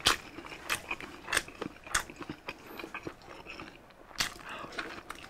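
Close-miked eating: a person biting and chewing a sausage dipped in cheese sauce, with wet mouth clicks and smacks about every half second to second. It goes quieter for a second or so before one more clear smack near the end.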